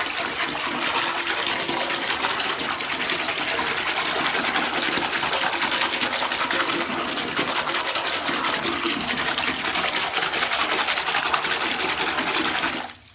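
Water rushing steadily into a bathtub full of bath-bomb water, stirring it up to raise bubbles, then shutting off abruptly near the end.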